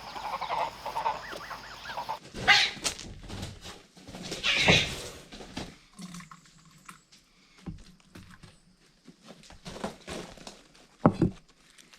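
Farm ducks and geese calling, with two loud calls about two and a half and four and a half seconds in. A sharp knock comes near the end.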